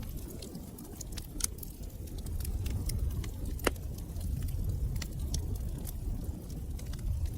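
Wood fire burning in a fireplace: a steady low rumble of flames with irregular sharp crackles and pops, one louder pop a little past halfway.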